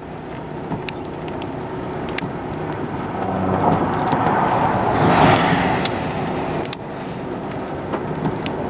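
Steady low rumble of a vehicle during a heavy thunderstorm, with scattered clicks and a whoosh that swells and fades about halfway through.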